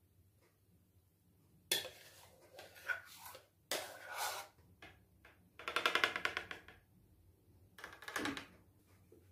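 Dishes and kitchen utensils being handled: a series of clinks and short clatters, with a quick rattle about six seconds in.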